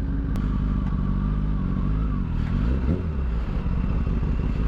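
Kawasaki Ninja ZX-10R's inline-four engine running steadily at low speed through an M4 slip-on exhaust. Its note dips, then briefly rises and falls about halfway through.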